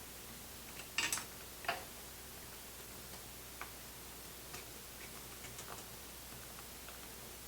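A few light clicks and taps from small items being handled, the loudest cluster about a second in and fainter ticks later, over a faint steady hum.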